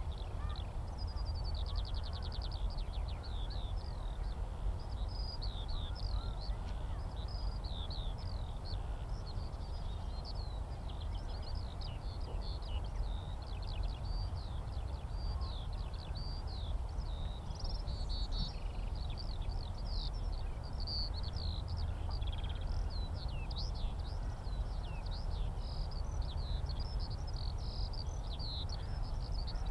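Skylark song: a continuous stream of rapid, varied chirps and trills pouring on without a break, over a steady low rumble.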